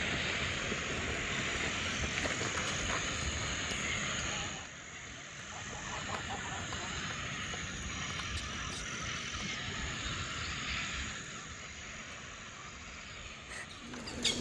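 A steady croaking chorus from the wetland, dense and continuous, growing quieter about four and a half seconds in.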